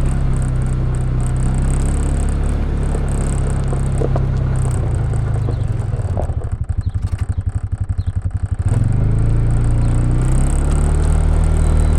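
Engine of a farm vehicle running steadily. About halfway through it drops for a couple of seconds to a slower idle with a pulsing beat, then picks back up.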